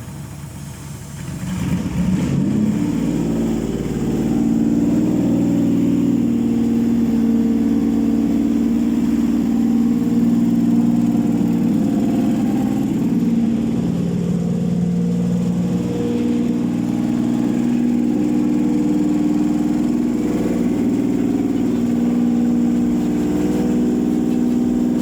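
Toyota 4GR-FSE V6 on a test stand, started for the first time as a used engine: it picks up about two seconds in and then runs steadily, its speed rising and settling a few times.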